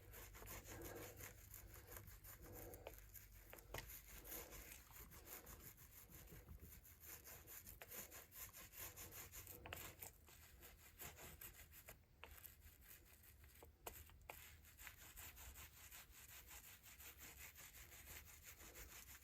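Faint, irregular rubbing strokes of a brush working resin into fiberglass cloth on a drum shell, barely above near silence.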